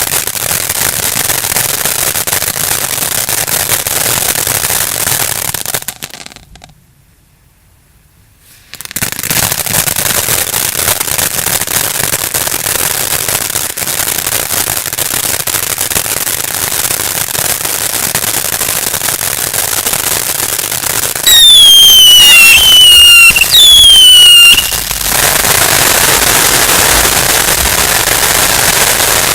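Firework battery firing: dense, continuous crackling that drops out for a couple of seconds, then resumes. Near the end comes a run of three or four loud shrieking whistles that fall in pitch, after which the crackling continues.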